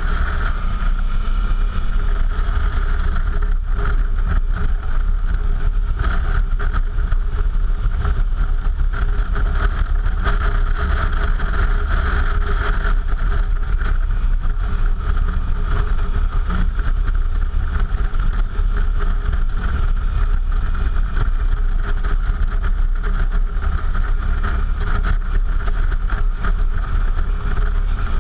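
Suzuki V-Strom motorcycle riding along at a steady pace, its engine running under a constant rush of noise, heavy in the low end.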